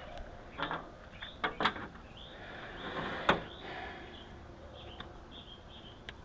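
A few light clicks and knocks from hands working on the car while the brake-light circuit is being tested, the sharpest about three seconds in.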